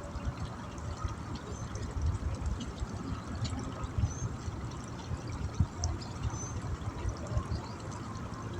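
Steady rush of running water, with scattered low thumps and a few short high chirps over it.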